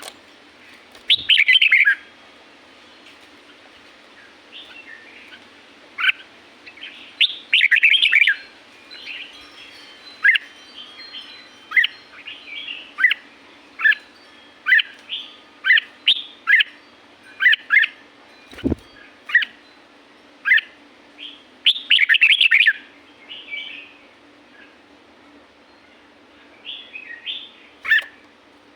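Red-whiskered bulbul singing: a few loud, bubbling warbled phrases separated by a run of short clipped notes coming roughly once a second. A faint steady hum sits underneath, and a single low thump comes about two-thirds of the way through.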